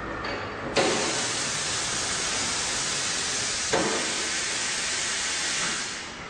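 Compressed air hissing steadily on a tyre changer, cutting in with a sharp click about a second in, with a second click partway through, and tailing off near the end.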